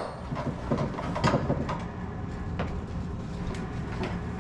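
Faint clicks and rustling of hands working electrical wires, twisting a wire nut on to cap a loose wire end, over a steady low hum.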